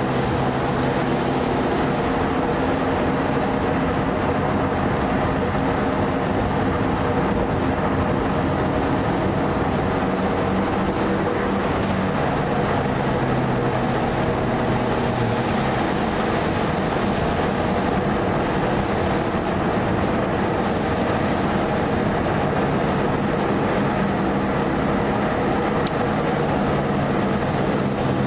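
Mitsubishi Lancer Evo IV's turbocharged four-cylinder engine heard from inside the cabin under hard driving, its note stepping up and down in pitch as it revs and changes gear, over a constant hiss of wet-road tyre and wind noise.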